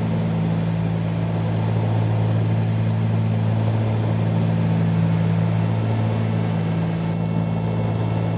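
Steady drone of a 1974 Cessna 310Q's twin piston engines and propellers in flight, a constant low hum with no change in pitch.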